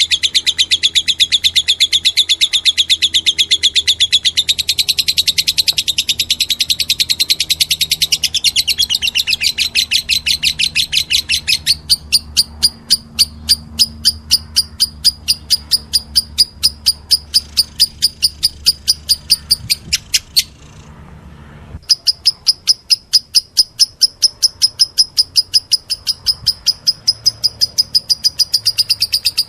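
Lovebird chick begging while being hand-fed: a fast, unbroken run of high chirps, about four a second, rising slightly in pitch after about twelve seconds and breaking off briefly about twenty seconds in before starting again.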